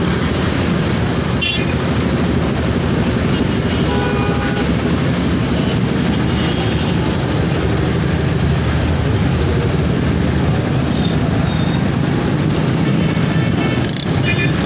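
Steady, loud road noise from riding in city traffic: vehicle engines and tyres, with a few short tonal sounds from the traffic, such as horns.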